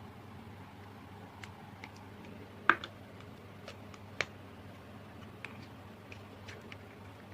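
Slime with mixed-in add-ins being played with by hand, giving scattered small clicks and pops. The loudest click comes about two and a half seconds in, and another follows about a second and a half later.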